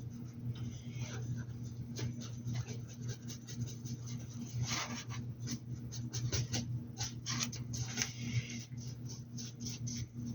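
Paintbrush scratching, dabbing and tapping against a hat in quick irregular strokes, heaviest through the second half, over a steady low electrical hum.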